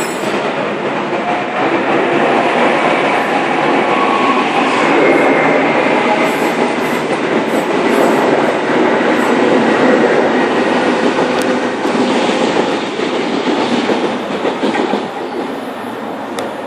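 Sydney Trains Oscar H-set double-deck electric train passing through the station, a steady loud rush of wheels and motors. It builds over the first second, holds, and eases off about fifteen seconds in.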